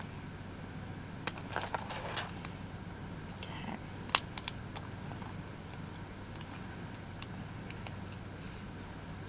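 Ceramic cutting blade scraping and nicking through book repair tape to cut out a small circle, heard as scattered light scratches and clicks, with one sharp click about four seconds in.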